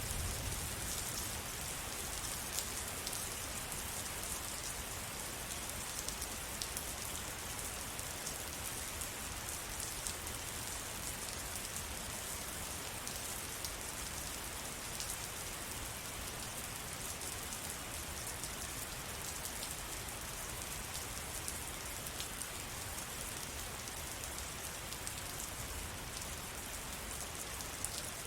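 Steady rain falling on a surface, a dense even hiss with many small drops ticking through it and a faint low rumble underneath.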